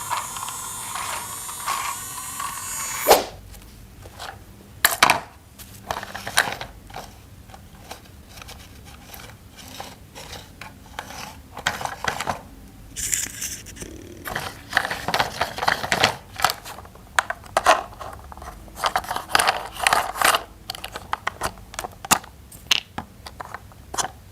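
Plastic toy parts being handled and snapped together: irregular clicks, clacks and scrapes. A steady sound runs for about the first three seconds and cuts off with a sharp snap.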